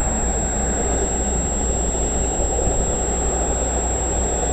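VIA Rail passenger train with a Siemens Charger diesel locomotive running by, a steady low rumble of engine and train.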